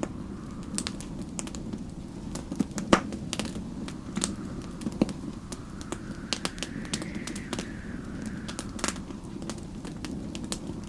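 Wood fire crackling with irregular sharp pops over a steady low rumble. Storm wind whistles faintly, rising and then falling in pitch about halfway through.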